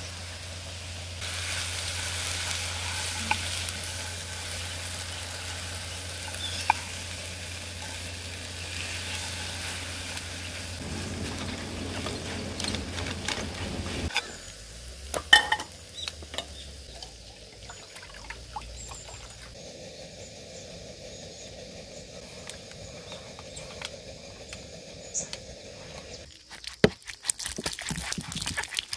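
Shredded cabbage, carrot and egg sizzling in a wok on a gas camp stove. From about halfway a wooden spoon stirs and scrapes the pan in scattered clicks. Near the end, water is poured from a bottle over hands rinsing fruit.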